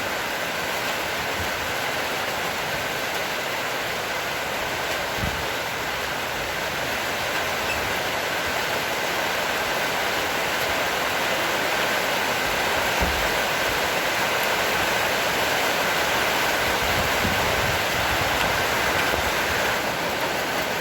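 Heavy rain shower falling steadily: a dense, even hiss of rain that grows a little heavier as it goes on.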